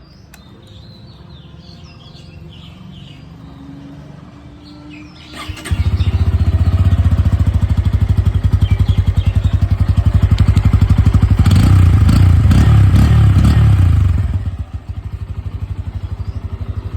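Bajaj Pulsar N160's single-cylinder engine starts suddenly about five and a half seconds in, and its exhaust runs with a fast, even beat. The exhaust is revved louder in the middle and then drops back to a lighter, pulsing idle near the end.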